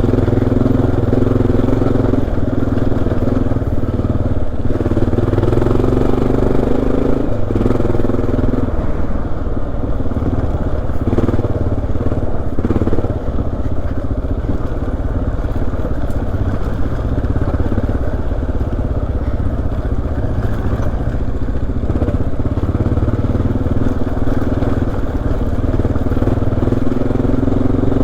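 Honda XR dual-sport motorcycle's single-cylinder four-stroke engine running under way on a rocky trail, its note rising and easing as the throttle changes.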